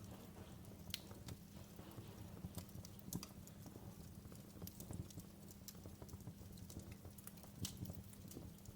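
Wood fire burning in a fireplace, crackling with irregular sharp pops over a low steady rumble of the flames; two of the pops, about a second in and near the end, stand out as louder.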